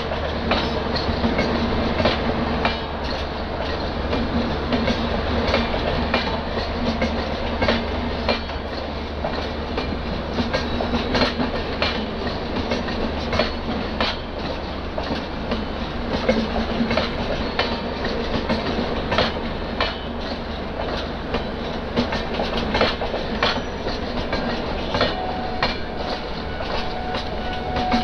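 Express train with LHB passenger coaches rolling past at speed: a steady rumble of wheels on rail, with repeated clickety-clack as the wheels cross rail joints. A thin steady whine joins in near the end.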